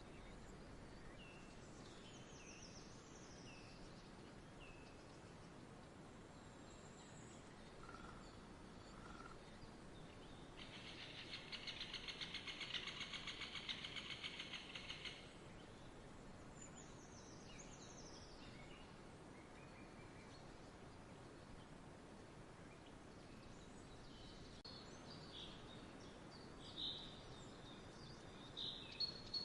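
Faint outdoor nature ambience: a steady low hiss with scattered bird chirps and short falling calls. About ten seconds in, a rapid buzzy trill runs for about five seconds. Near the end there is a short burst of louder chirping.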